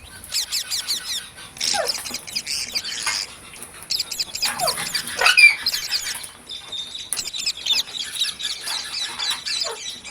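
Several green parrots calling together: a dense, unbroken run of short, sharp squawks and chirps that sweep quickly up and down in pitch.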